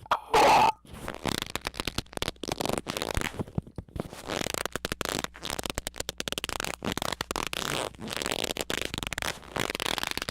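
A loud brief burst, then a long stretch of dense, irregular crackling and sputtering clicks.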